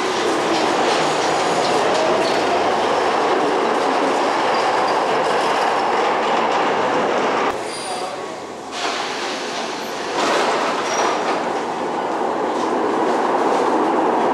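Rail vehicle running on track, a steady rolling noise that drops away for a couple of seconds about halfway through and then comes back.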